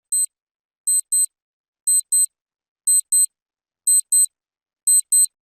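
High-pitched electronic beeps in the pattern of a digital alarm clock: one beep, then a quick double beep about once a second, five times.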